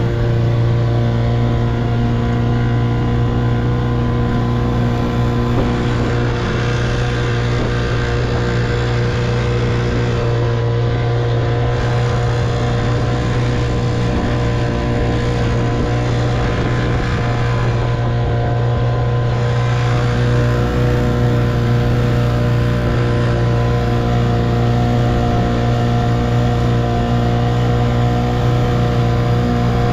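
1958 Evinrude 3 hp two-stroke outboard motor running steadily at a constant speed.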